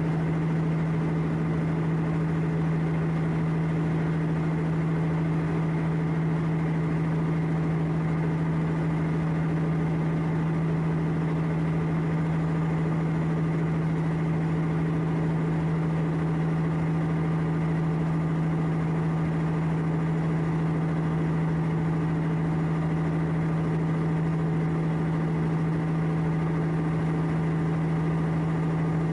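A ship's diesel engine running steadily: an even, unbroken low hum with one strong deep tone that does not change.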